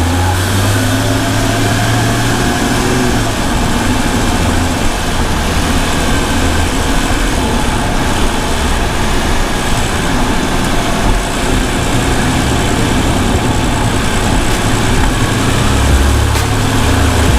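BMW M235i engine and exhaust running steadily, a low note that swells and eases now and then, with a constant rushing noise over it.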